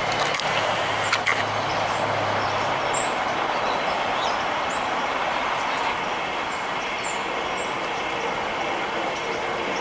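Small birds give short, high chirps several times over a loud, steady rushing noise. A low hum runs under the first three seconds.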